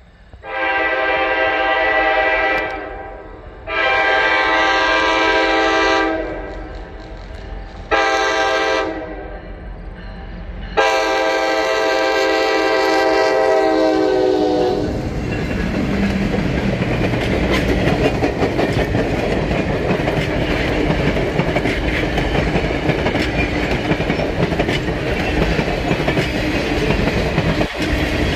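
Reading & Northern EMD diesel locomotive horn sounding the grade-crossing signal, long, long, short, long, with several notes at once. The locomotives and a string of passenger cars then roll past, wheels clicking over the rail joints.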